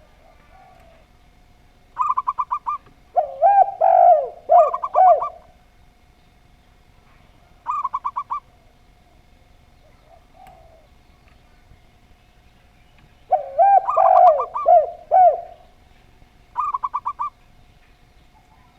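Two doves calling in turn and overlapping: a zebra dove's quick, rattling run of short notes, and a spotted dove's lower, rounder cooing phrases. The short trills come three times and the longer coos twice.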